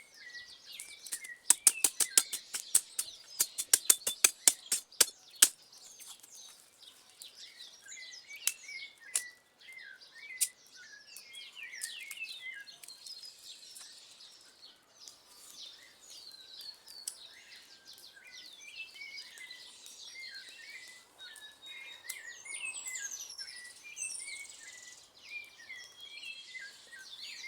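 Small birds chirping over and over with short, quick calls. About a second and a half in, a rapid run of loud, sharp clicks or snaps lasts about four seconds.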